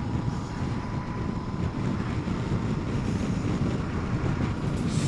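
Motorcycle riding along, its engine running steadily under wind noise on the microphone.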